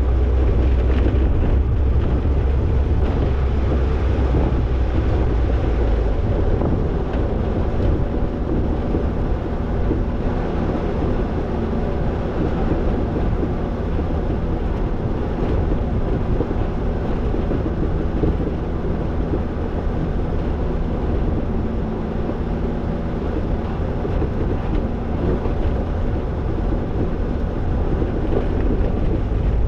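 Toyota Tercel 4WD wagon running steadily as it drives, engine and drivetrain hum under road and wind noise.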